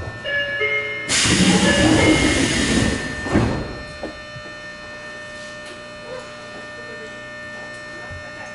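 Train's pneumatic sliding passenger doors working: a few short stepped chime tones, a loud hiss of air lasting about two seconds, then a thump as the doors meet.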